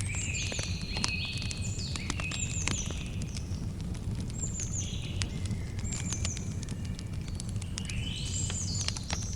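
Campfire crackling with frequent sharp pops over a steady low rumble. A bird calls again and again over it: a high note slurring downward, then lower buzzy notes.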